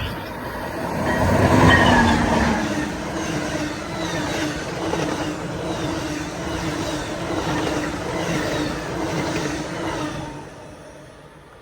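Amtrak Northeast Regional passenger train, led by an ALC42 Charger diesel-electric locomotive, passing at speed. The locomotive is loudest about two seconds in, then the coaches clatter past on the rails. The sound falls away about ten seconds in.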